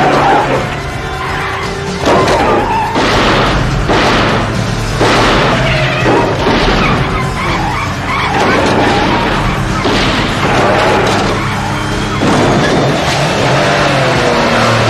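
Action-film car chase soundtrack: orchestral score over car engines and screeching tyres as the cars skid through turns.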